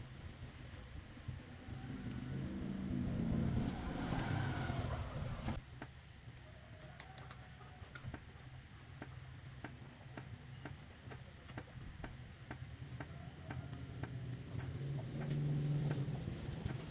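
A motor vehicle engine running, growing louder for a few seconds and then cutting off abruptly, followed by a quieter stretch of regular light ticks over a low hum.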